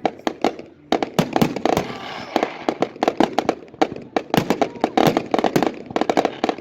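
Fireworks going off in rapid succession: a dense, irregular string of sharp bangs and pops, several a second, with crackling in between.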